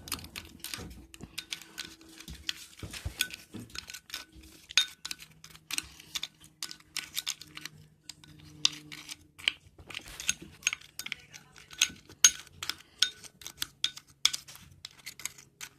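Spoon stirring yogurt mixed with Oreo O's cereal and chocolate in a bowl, with many irregular clinks and scrapes of the spoon against the bowl.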